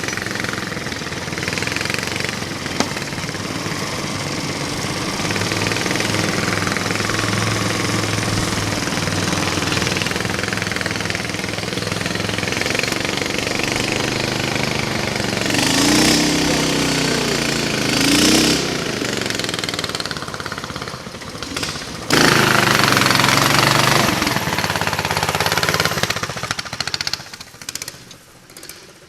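Baja Warrior mini bike's 420cc single-cylinder engine running with a chugging beat, revved up sharply twice about sixteen and eighteen seconds in, then held at high revs for about two seconds a little after twenty-two seconds before falling away near the end.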